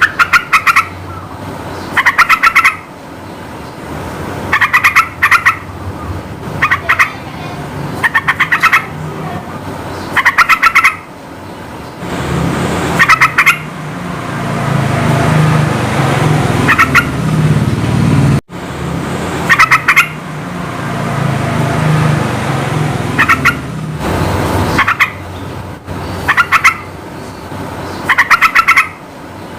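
Yellow-vented bulbul calling: short bursts of rapid, stuttering notes repeated every one to two seconds. Through the middle, a low rumbling noise swells twice in the background.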